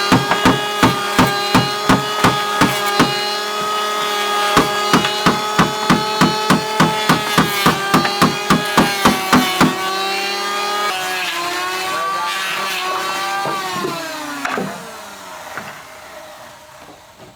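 Electric power tool's motor whining steadily with sharp regular knocks about three times a second for the first ten seconds. The knocks then stop and the whine carries on alone, its pitch falling away as the motor winds down near the end.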